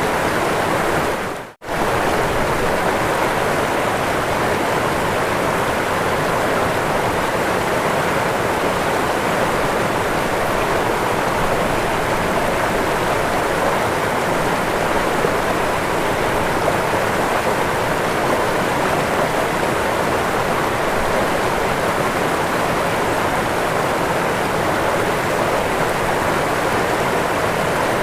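Waterfall rushing in a steady, even roar of falling water, with a short fade out and back in about a second and a half in.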